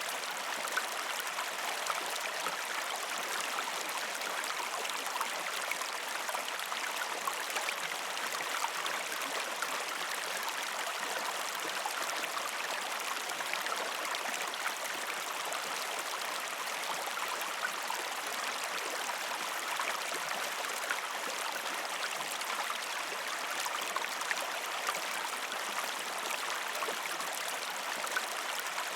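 River stream flowing over rocks: a steady, even rush of water with many small splashes and gurgles scattered through it.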